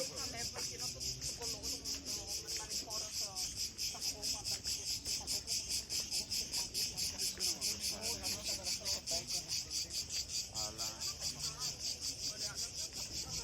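Insects, crickets or cicadas, singing in a loud, even pulsing rhythm that runs on without a break. Faint voices of people sound in the background.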